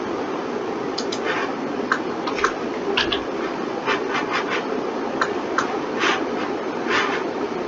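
Computer mouse and keyboard clicking irregularly, a few sharp clicks a second, over a steady hum.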